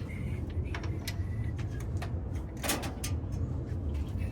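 Scattered small clicks and knocks of parts and hand tools being handled on an engine, over a steady low hum, with a short rustle or scrape a little past the middle.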